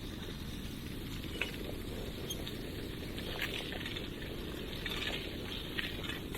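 Steady low rumble of a bicycle ride: wind buffeting the small camera's microphone along with the rolling tyres, with scattered light clicks and crackles.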